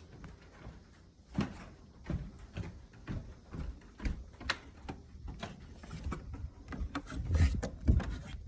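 Footsteps thudding at a walking pace, with a few knocks and bumps; the heaviest steps come near the end.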